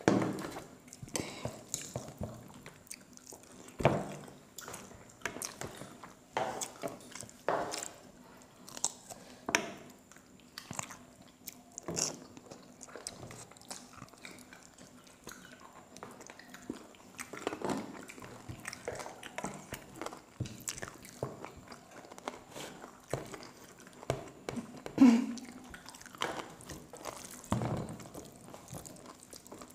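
Close-miked eating: chewing and biting into pieces of chicken curry and rice eaten by hand, a run of irregular mouth clicks and smacks with a few louder ones, the loudest a few seconds before the end.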